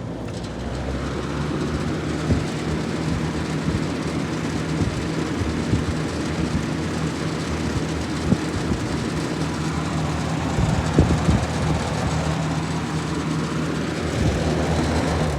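Older Galaxy box fan running on high: a steady rush of air over a low motor hum, building a little over the first couple of seconds as it comes up to speed. A few short rattles sound through it, likely from its worn, loose grill.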